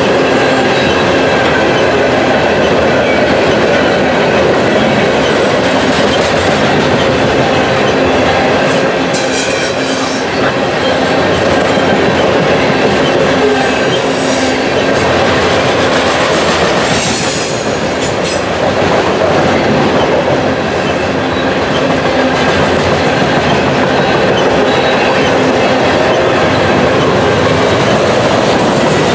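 Loaded coal hopper cars rolling past: a steady rumble and clatter of steel wheels on the rails, with brief high wheel squeals a few times in the middle.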